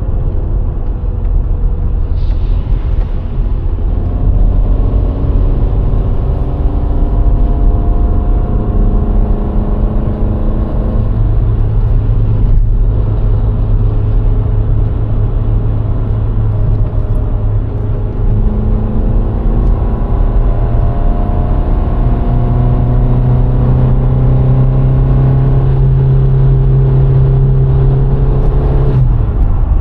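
A VW Golf IV 1.6's four-cylinder petrol engine running under way, over a steady low road and tyre rumble. The engine note steps up in pitch twice and drops suddenly near the end.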